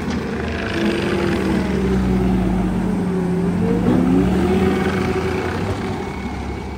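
Bobcat T86 compact track loader's diesel engine and hydraulics running steadily as it drives a Coneteks forestry mulcher over ground to level it. A whine in the machine shifts up and down in pitch around the middle, and the sound fades somewhat near the end.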